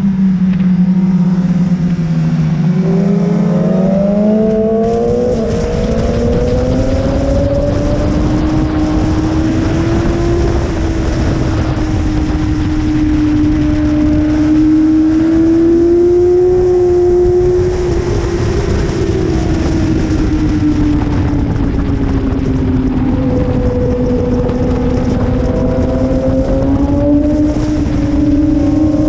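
BMW S1000RR's inline-four engine running hard on track, its pitch dipping then climbing slowly, sagging again and rising near the end as the rider works the throttle, over a steady rushing noise.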